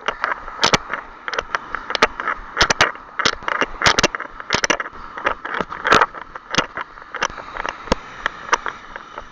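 Irregular sharp knocks and scrapes, about two to three a second, over a steady hiss: the footfalls and jolting of a camera carried by a runner.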